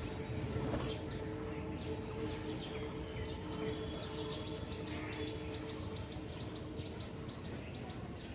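Small birds chirping over and over in short high notes, above outdoor background noise and a steady low hum that fades out near the end.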